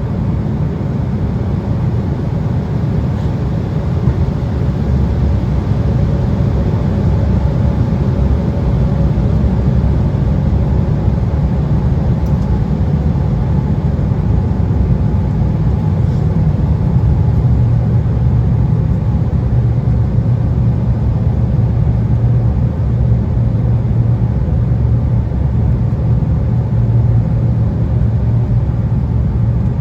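Steady roar of an Embraer 175 regional jet's cabin in flight: engine and airflow noise heavy in the low end, with a low hum that grows more distinct about halfway through.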